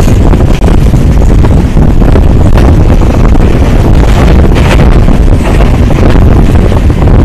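Wind buffeting the microphone out of the open window of a moving passenger train, over the steady running noise of the train on the rails. It is loud and unbroken throughout.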